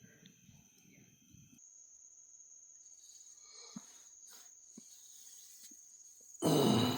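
Crickets or other night insects trilling steadily as a continuous high tone. About a second and a half in the sound changes abruptly and gets quieter, and a loud sound breaks in near the end.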